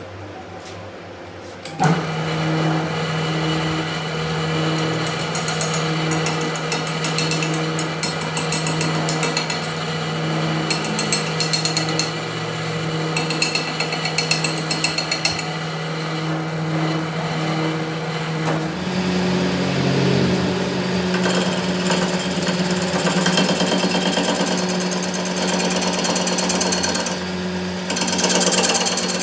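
A workshop power tool or machine starts about two seconds in and runs steadily, with a steady hum and a rapid chattering. Its pitch shifts slightly about two-thirds of the way through.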